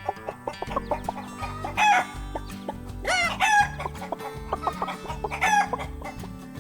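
Chicken calls in three quick clusters, about two, three and five and a half seconds in, over light background music with a steady bass line.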